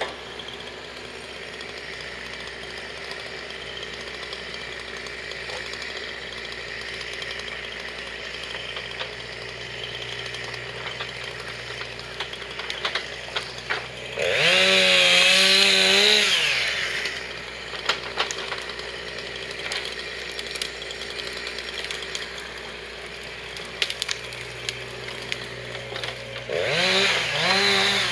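Two-stroke chainsaw running at a low, steady level, then opening up to full revs for about three seconds around the middle before dropping back. It revs up and down in short bursts again near the end.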